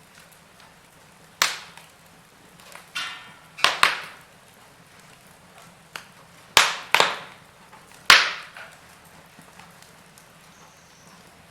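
Burning logs in a fireplace crackling, with about half a dozen sharp pops and snaps a second or two apart and a brief hiss about three seconds in.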